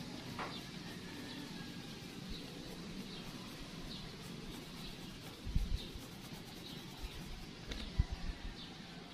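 A bird chirping in the background, short high chirps repeating about once a second over a faint hiss. Two low bumps come about halfway through and near the end.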